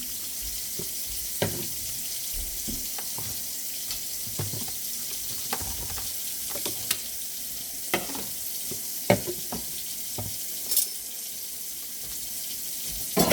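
Kitchen tap running into a sink, with dishes and utensils knocking and clinking now and then as they are washed.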